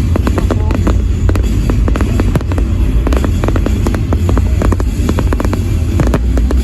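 Fireworks display: a dense run of rapid crackles and bangs from aerial fireworks over a continuous low rumble.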